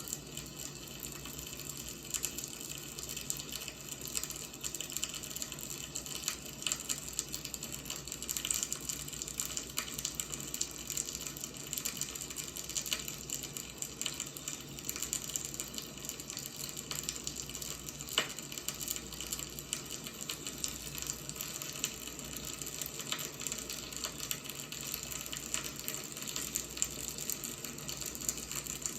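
Burning firewood: a steady hiss dense with small, irregular crackles and pops, with one sharper pop about eighteen seconds in.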